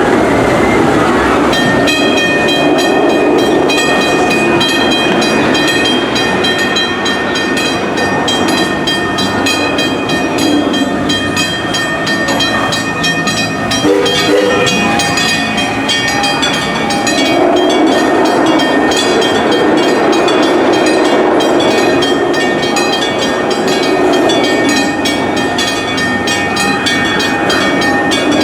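Six Flags Railroad steam train running, with rapid clicking from the wheels and several steady high-pitched tones held over the running noise.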